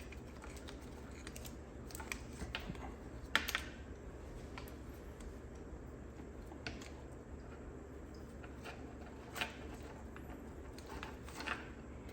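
Scattered light clicks and taps of plastic wiring-harness parts and connectors being handled and tucked into place, over a steady low hum.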